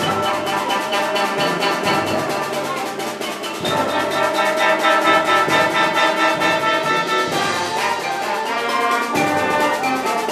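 Concert band playing, with brass over percussion keeping a fast, even beat. The band comes in louder about three and a half seconds in.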